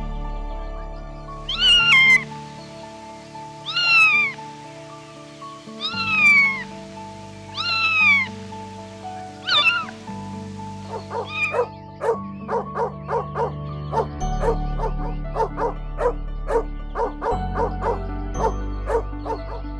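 A small animal calling over background music: five drawn-out calls about two seconds apart, each falling in pitch, then a fast run of short calls in the second half.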